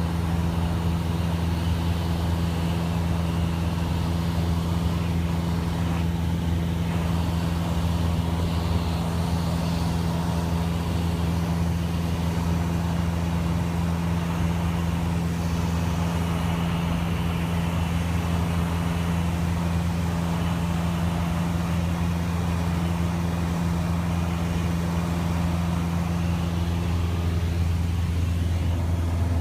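Cessna 172S single-engine airplane's four-cylinder Lycoming engine and propeller droning steadily in flight, a constant deep hum with no change in pitch.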